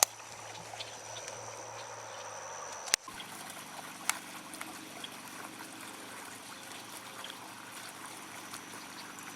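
Shallow creek water trickling steadily, with a single sharp click about three seconds in.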